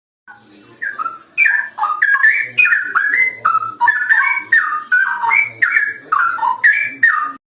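Straw-headed bulbul (cucak rowo) in full song: a fast, unbroken run of loud, liquid whistled notes sliding up and down, lasting about seven seconds and stopping abruptly near the end.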